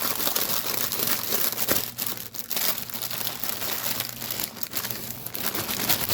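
Packaging of stamped cross-stitch kits crinkling and rustling as it is handled and opened, with many small crackles.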